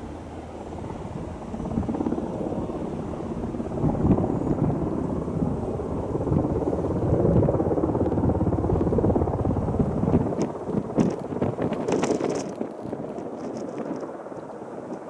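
Beechcraft light aircraft's propeller engine running, swelling to its loudest a few seconds in and easing off near the end, mixed with strong wind buffeting the microphone. A cluster of sharp crackles comes about ten to thirteen seconds in.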